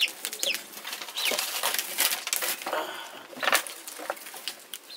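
Birds chirping, short falling chirps repeated several times, over a steady run of sharp crackles and clicks.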